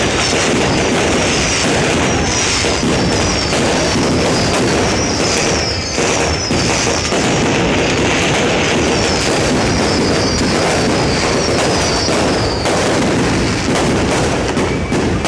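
New Year fireworks display: a dense, unbroken run of bangs and crackles. A repeated high whistle, each one falling in pitch, sounds over it from about two seconds in until shortly before the end.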